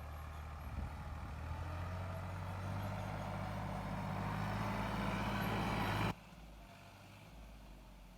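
Sonalika DI 35 tractor's diesel engine running steadily, growing a little louder, then dropping suddenly about six seconds in to a much quieter low hum.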